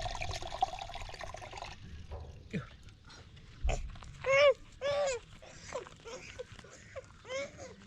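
A burst of rustling noise in the first second or two, then a run of short high-pitched whimpering squeals, each rising and falling, two strong ones about four and five seconds in and several shorter ones after.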